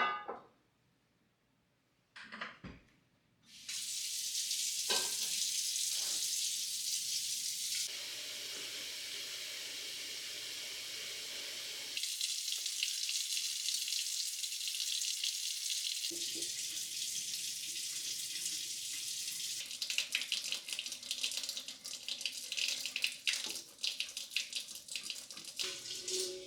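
Kitchen tap running into a sink. It starts about three and a half seconds in after a few knocks, and toward the end there is splashing and clatter as things are rinsed under the stream.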